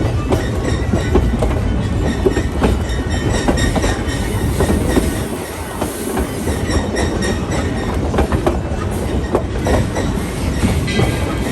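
Narrow-gauge passenger coach rolling along the track: wheels clicking over rail joints and the car rattling, with a brief high wheel squeal near the end.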